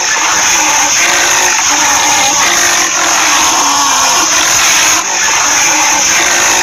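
Rhinoceros grunting, loud and continuous, with brief breaks about every two to three seconds.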